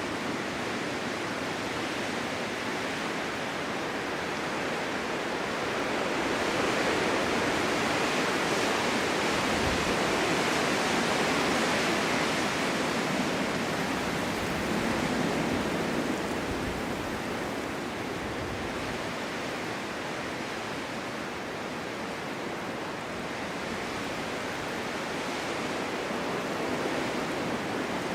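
Snowstorm wind blowing steadily, a continuous rushing that swells louder from about six seconds in until about sixteen seconds, then eases back.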